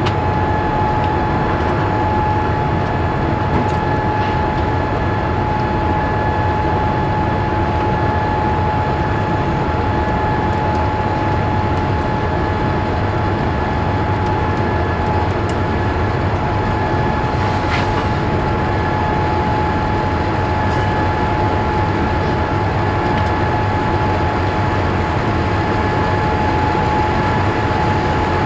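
Boeing 787-8 Dreamliner cabin noise heard from a passenger seat: steady engine and airflow noise with a steady high whine running through it.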